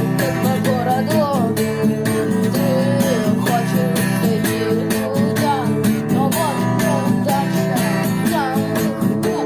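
Instrumental passage of a home-studio rock song: a lead electric guitar plays a bending melody over strummed rhythm guitar and bass, with a drum machine keeping an even beat.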